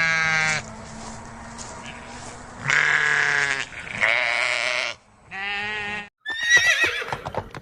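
A goat bleating four times, each a pitched, wavering call of under a second. Near the end a horse starts to whinny.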